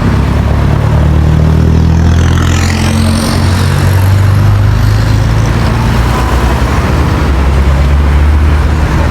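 Motor vehicle engine running close by, a loud steady low rumble that shifts pitch a few times, amid street traffic.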